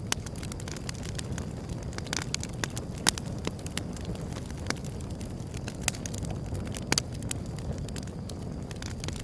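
Wood fire crackling, with irregular sharp pops and snaps over a steady low rumble. The loudest pops come right at the start, about three seconds in and about seven seconds in.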